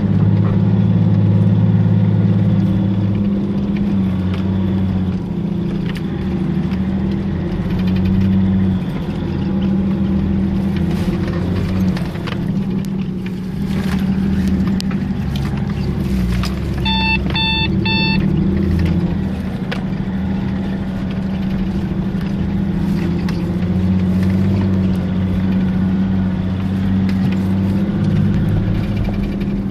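Off-road 4x4's engine running steadily while driving, heard from inside the cab as a constant low hum. About halfway through, three short electronic beeps sound in quick succession.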